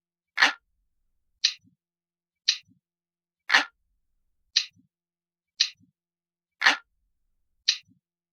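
Looped analog clock ticking sound effect: sharp ticks about once a second, every third tick fuller and louder than the two between.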